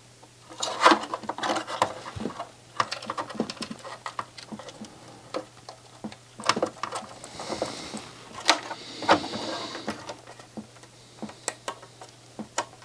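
Irregular small clicks, taps and short rustling scrapes of hands handling the parts and cable connectors of an opened CD player during reassembly.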